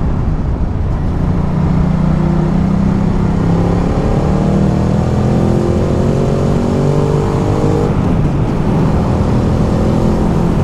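Ducati Multistrada 1200's L-twin engine running under way over steady wind rush, its note rising slowly in pitch from about four seconds in as the bike pulls harder.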